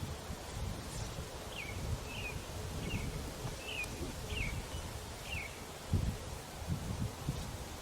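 Honey bees humming faintly around an opened swarm trap, under low rumbling wind and handling noise, while a songbird gives six short falling chirps at a steady pace from about a second and a half in.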